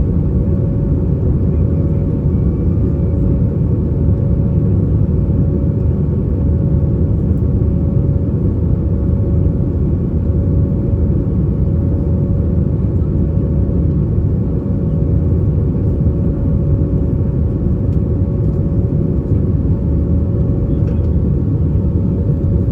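Steady cabin noise inside an Airbus A320-232 airliner in the climb: a continuous low rumble of engines and airflow, with a steady hum running through it.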